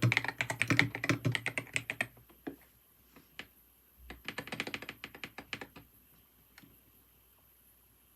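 Typing on a computer keyboard: a quick run of keystrokes for about two seconds, a few single taps, then a second run about four seconds in, and the keys fall still for the last couple of seconds.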